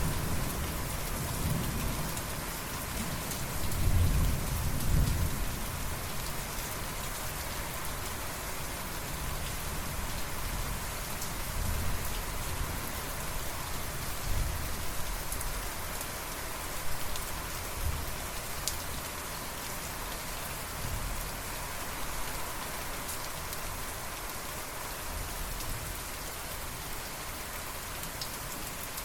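Steady heavy rain falling on surfaces, a constant even hiss. Thunder rumbles low about four seconds in, and fainter rumbles follow later.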